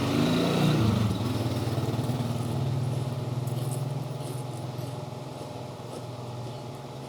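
A motor vehicle's engine passing by: its pitch drops about a second in, then it runs steady and fades away.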